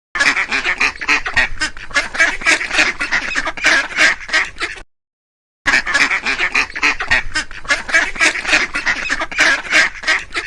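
Duck quacking in a fast run of many quacks for about five seconds. The run cuts off abruptly, then a second run starts about a second later.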